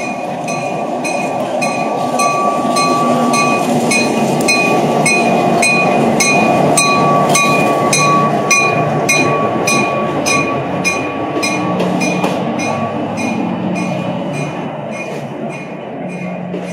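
Diesel excursion train rolling slowly into a station, its engine and wheels rumbling, while the locomotive bell rings steadily about twice a second. A thin steady squeal, typical of wheels on the rail, rides over it for the first dozen seconds.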